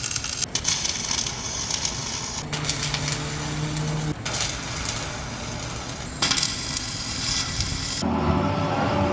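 Welding arc crackling and sizzling in several short bursts, with tack welds going onto the steel plates of a bulldozer blade. Near the end the crackle gives way to a lower, steadier machine hum.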